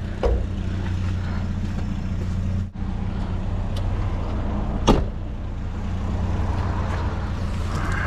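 A vehicle engine running steadily with a low hum, briefly dropping out a little under three seconds in, and a single sharp knock about five seconds in.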